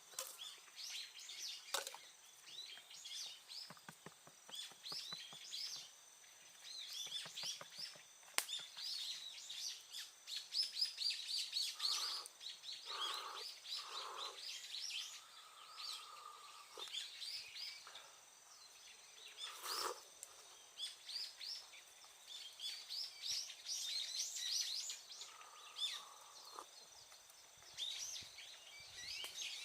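Birds chirping and singing: many short high chirps in quick succession, with a few lower calls in between. A few sharp clicks stand out, the loudest about eight seconds in.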